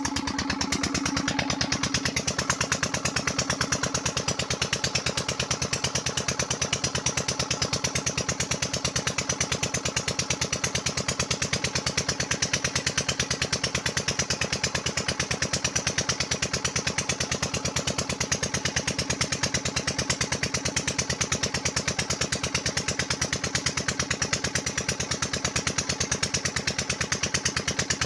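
Tubewell diesel engine running steadily at working speed, driving the well pump, with a fast, even beat of exhaust pulses.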